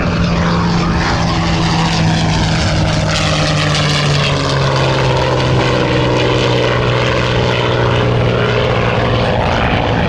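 Homebuilt single-engine propeller airplane flying past during an aerobatic display. Its engine and propeller drone drops gradually in pitch as it passes.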